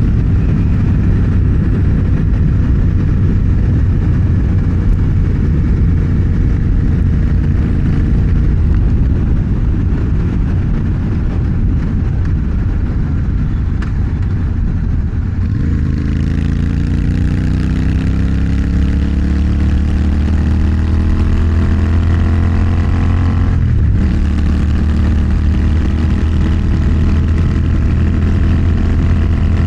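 Motorcycle engine running steadily, then from about halfway accelerating with climbing revs, dipping briefly at a gear change near the end and climbing again in the next gear.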